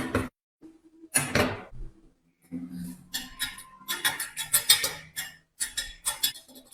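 Irregular metal clinks and knocks, hard parts being handled and set against each other, growing into a busier clatter about halfway through.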